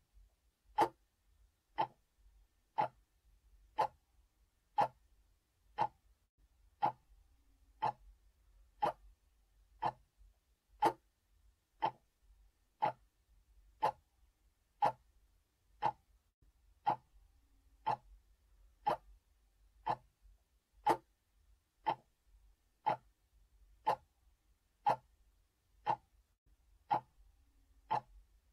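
A clock ticking steadily, about once a second.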